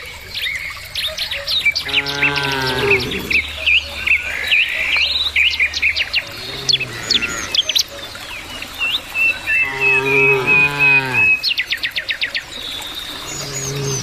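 Cows mooing: two long moos, about two seconds and ten seconds in, each dropping in pitch at its end, with a fainter one between them and another starting near the end. Small birds chirp and trill throughout.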